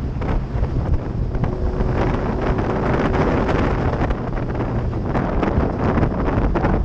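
Heavy wind buffeting the microphone of a moving motorbike, with the engine running steadily underneath.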